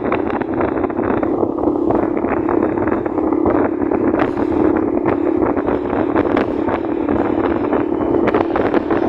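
Motorcycle riding at a steady speed: the engine holds an even hum while wind buffets the microphone.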